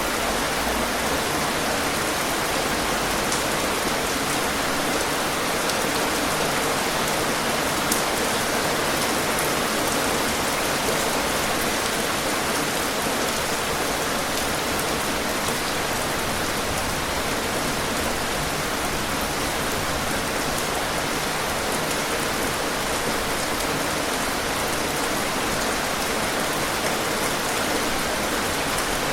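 Steady rain falling on a surface, an even hiss of many fine drop patters, with a single small click about eight seconds in.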